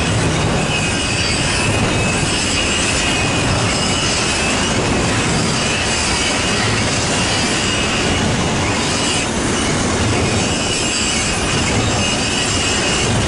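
Cars of a BNSF intermodal freight train rolling past at close range: steady wheel-on-rail noise with a high wheel squeal that comes and goes.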